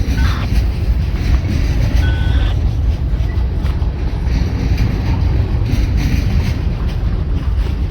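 A train passing close by with a loud, steady low rumble, and a brief thin squeal about two seconds in.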